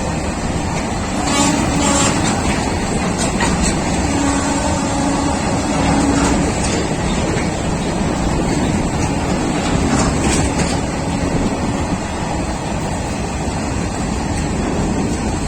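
Goods train passing at speed: a steady rumble of wheels on the rails, with a few sharp clicks of wheels crossing rail joints.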